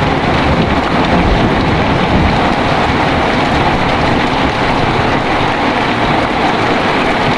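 Heavy rain falling steadily, with the low rumble of a thunderstorm fading away over the first couple of seconds.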